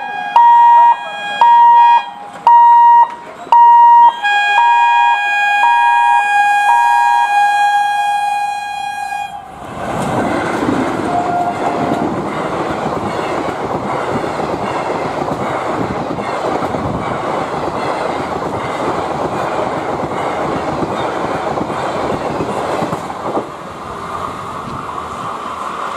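Indian Railways WAP-4 electric locomotive's horn sounding about five short blasts, then one long blast of about five seconds. About nine seconds in, the loud, steady noise of its ICF passenger coaches running past close by takes over, the wheels clattering on the rails, and it eases slightly near the end.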